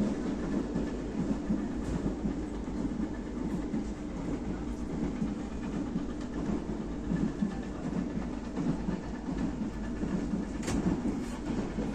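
Sleeper train running on the rails: a steady rumble, with a few sharp clicks near the end.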